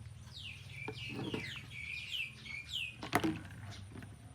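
A quick run of about eight high chirps, each falling in pitch, from a small animal; a sharp knock follows just after three seconds. A steady low hum runs underneath.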